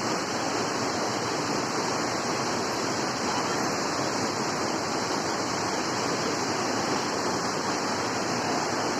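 Steady rushing of falling water, an even roar that does not change.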